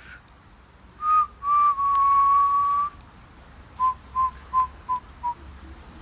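A person whistling clear notes: two short notes, one long held note, then five short pips that fall slightly in pitch.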